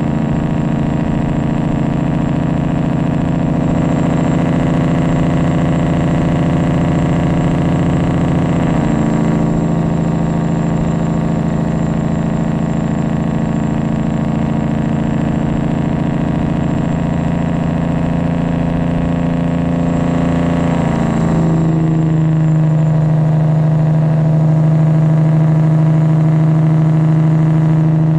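Straight-piped Detroit Diesel 12.7 in a Freightliner Classic XL, working its Jake brake on a long downhill grade: a steady, loud engine note. The pitch drops around 9 s, and again in a short glide around 21 s, after which it is a little louder.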